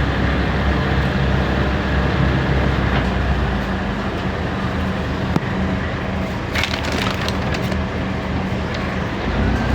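Scania K320 hybrid bus running, a steady low drone with a few sharp rattles and clicks a little over halfway through.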